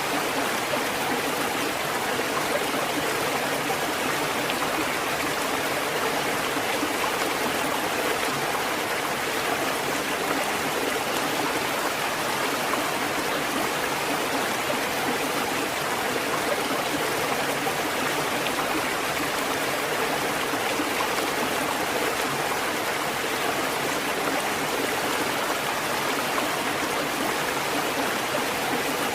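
Water fountain running: a steady, unbroken rush of splashing water.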